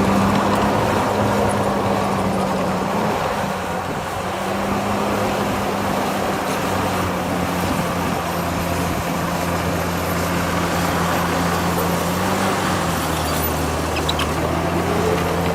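Heavy diesel engine of earthmoving machinery running steadily under work, its pitch shifting slightly about three seconds in and again near twelve seconds.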